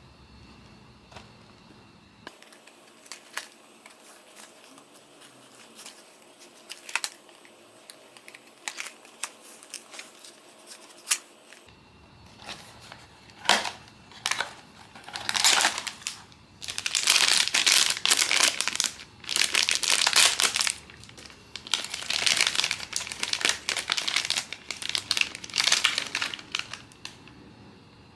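Blind box packaging being unwrapped by hand: light scattered clicks and taps at first, then long, loud stretches of crinkling and crumpling about halfway through.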